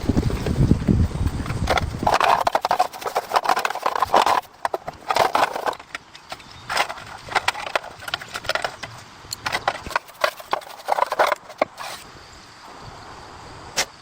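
Irregular knocks, clicks and scraping, in clusters, with a low rumble in the first two seconds.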